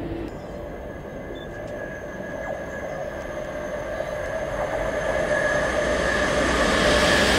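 An electric multiple unit approaching along the line and growing steadily louder, with a steady high whine over the rumble of the wheels on the rails.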